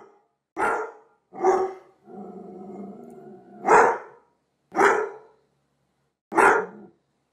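A dog barking: five loud single barks at uneven intervals, with a lower, steady growl of about a second and a half leading into the third bark.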